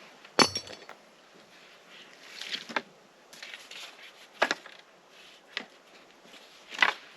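Camping gear being handled and packed: a few separate knocks and clinks of hard items, the loudest about half a second in with a short metallic ring.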